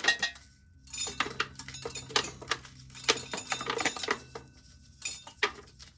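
Irregular clatter and clicking of dry corn, ears and loose kernels rattling against one another during hand corn shelling, with a faint steady low hum underneath for a few seconds.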